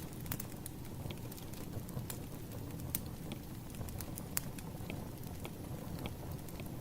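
Burning firewood crackling: sharp pops and snaps at irregular intervals over a steady low rumble.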